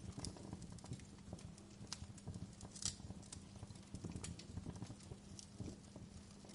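Wood fire crackling in a fireplace: irregular small pops and snaps over a low rustle of flames, the sharpest pop about three seconds in, with a faint steady hum underneath.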